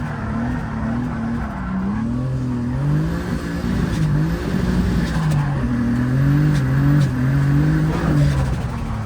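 Turbocharged BMW E30 drift car's engine being driven hard, the revs repeatedly climbing and falling every second or two as the throttle is worked.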